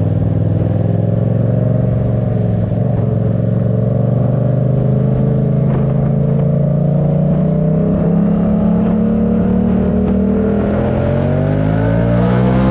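Yamaha MT-07's 689 cc parallel-twin engine running under way. Its note holds steady, then rises gradually through the second half as the bike accelerates.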